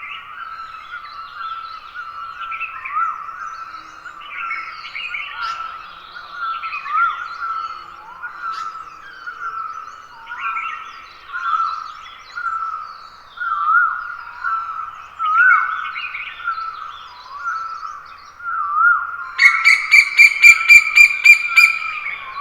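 Morning chorus of Himalayan forest birds: many overlapping chirps and short whistled notes. About two and a half seconds before the end, one bird close by breaks in with a louder, rapid run of repeated ringing notes.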